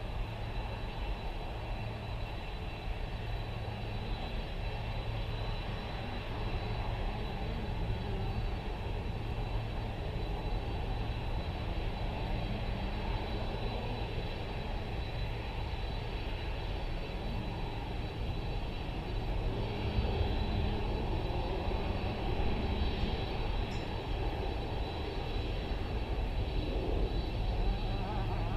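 The four jet engines of a Boeing 747-400 running during departure: a steady roar and rumble with a high, even whine. It grows somewhat louder in the second half.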